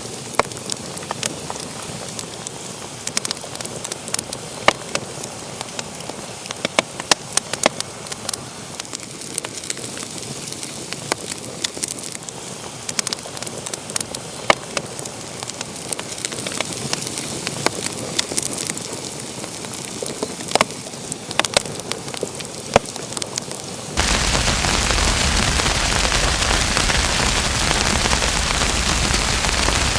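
Wood fire crackling in a fireplace, with frequent sharp pops and snaps over a soft hiss. About four-fifths of the way through it switches abruptly to a louder, steady hiss with no distinct pops.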